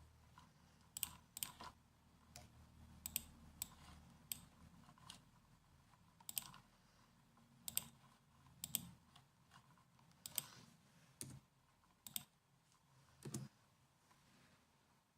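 Laptop keyboard keys pressed slowly, one at a time: faint, sharp, irregular clicks about once a second, stopping shortly before the end.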